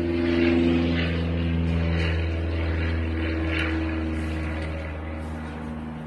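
A steady, motor-like drone: a low hum with several held tones above it, unchanging, engine- or propeller-like.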